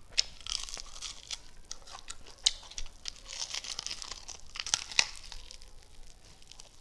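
A chicken wing being bitten and chewed up close: crunching and tearing of the skin and meat, with sharp cracks about two and a half and five seconds in.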